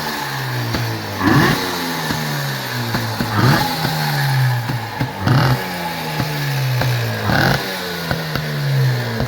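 1953 Motobi twin-cylinder two-stroke motorcycle engine running and being blipped about every two seconds, the revs jumping sharply and then falling away between blips.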